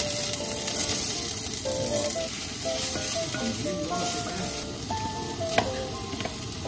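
Chopped onion and garlic sizzling in hot oil in a glass pot while being stirred with a wooden spatula. One sharp knock comes about five and a half seconds in.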